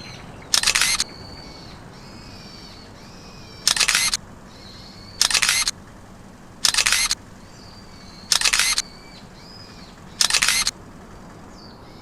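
Camera shutter sound repeated six times, one to two seconds apart, as a series of photos is taken. Faint bird chirps come in between the shutter sounds.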